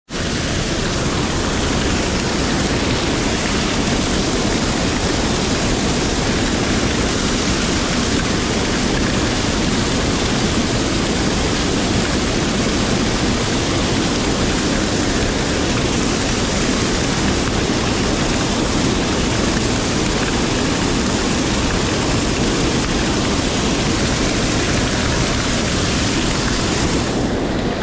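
Mountain stream water rushing, a loud steady noise with no breaks.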